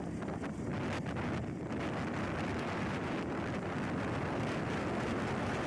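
Steady wind buffeting the microphone, a dense low rumble with no breaks.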